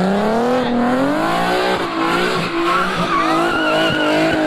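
Car engine revving up and then held at high revs, its pitch wavering, with the tyres squealing as the car does a burnout or spin.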